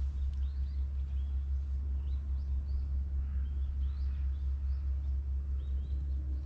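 Small birds chirping repeatedly in short, high arched calls over a steady low rumble.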